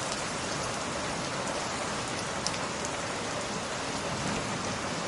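Steady rain falling, an even hiss with a faint click about halfway through.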